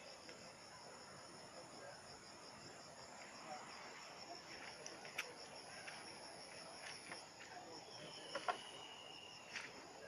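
Insects chirping steadily in a rapid, even, high-pitched pulse over a faint hiss, with a few light clicks.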